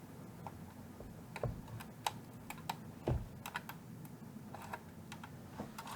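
Scattered, irregular light clicks and taps of hand tools working at the wiring inside a vintage tube amplifier chassis, trying to free tightly wrapped wire connections, with one slightly heavier knock about three seconds in.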